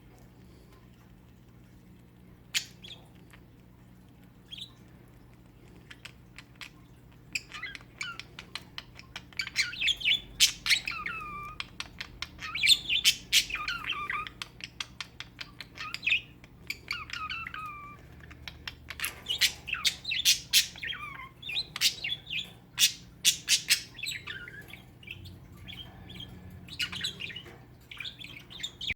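Budgies chirping and squawking in short warbling calls, mixed with many rapid sharp clicks. The first few seconds hold only a few scattered clicks; the calls start about seven seconds in and come in bouts until the end.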